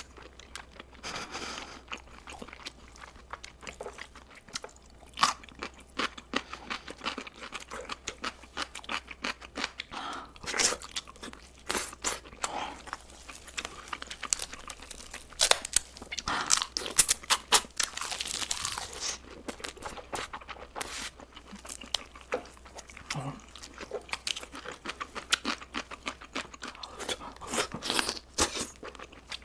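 Close-miked eating: repeated crunchy bites and wet chewing, irregular, with a busier stretch of crunching near the middle.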